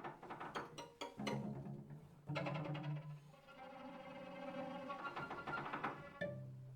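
Piano trio (piano, violin and cello) playing contemporary chamber music: a run of sharp, accented attacks, then a sudden louder entry a little after two seconds, sustained bowed notes, and a low note held near the end.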